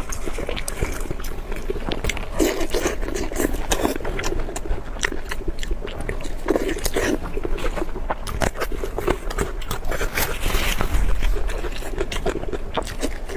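Close-miked chewing and biting of food, with many small crunches and mouth clicks.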